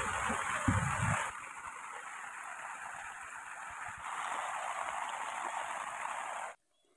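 Heavy rain falling on puddles and waterlogged ground, a dense steady hiss that changes level twice and cuts off abruptly near the end. A few low thumps about a second in.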